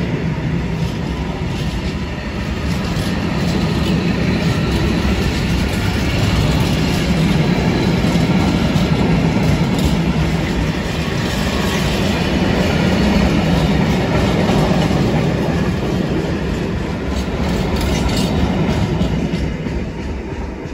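A freight train's covered wagons rolling past close by: a steady rumble of wheels on rail with clicking over the rail joints, fading as the last wagon goes by near the end.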